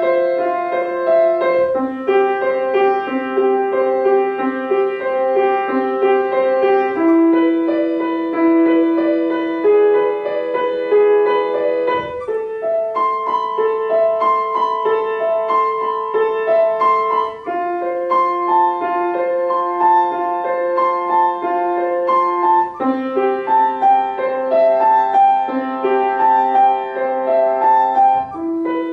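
Solo piano played by a first-year student: a simple piece of evenly held notes in short phrases that repeat.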